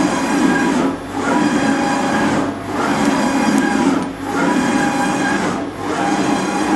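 BRAND 850 NE CNC surface grinder running, its table traversing back and forth: a steady machine sound with a short dip about every 1.6 seconds as the table reverses.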